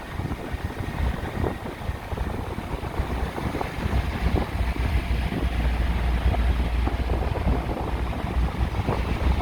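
Wind buffeting the microphone, a steady low rumble with uneven gusts.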